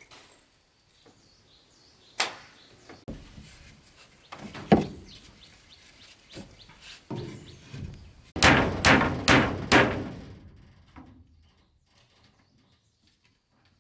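Scattered knocks and thuds, with a quick run of about five sharp strikes about eight seconds in.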